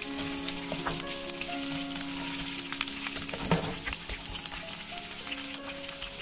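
Water bamboo (jiaobai) wedges sizzling and crackling in hot oil in a nonstick frying pan while a wooden spatula stirs and turns them, with a louder knock about three and a half seconds in.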